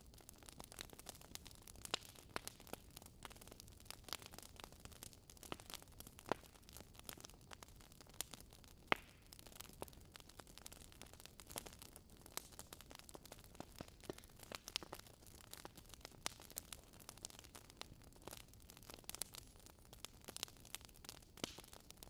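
Campfire crackling: a faint, steady hiss of burning wood with dense, irregular snaps and pops, one louder pop about nine seconds in.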